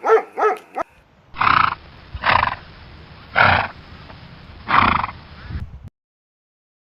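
A dog's last few barks, then a large animal making four loud, rough, breathy calls about a second apart, which stop abruptly.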